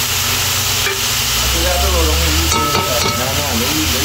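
Geera pork frying and sizzling in a pot over high heat, with the steady hiss of the sauce being dried down.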